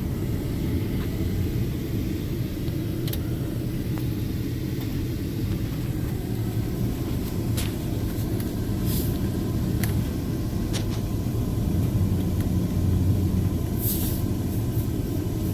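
Steady low rumble of a car driving on a highway, engine and road noise, heard from inside the moving car, with a few faint clicks.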